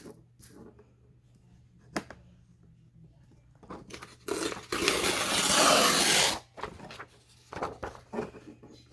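A sheet of craft paper torn in one long pull of about two seconds, about halfway through, with light paper-handling taps and rustles around it.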